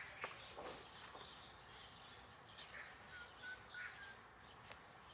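Soft paper rustles as the pages of a coloring book are turned, a few separate swishes. In the middle there are several faint, short, high chirps.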